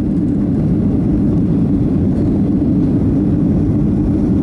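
Boeing 757 jet engines at takeoff power, a steady loud rumble.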